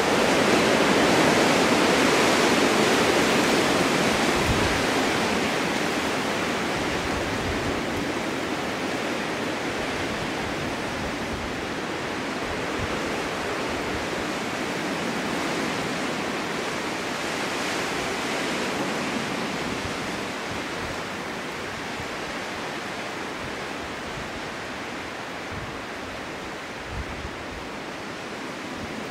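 Wind blowing hard in a snowstorm: a strong gust in the first few seconds slowly eases to a steadier blow, with occasional low rumbles underneath.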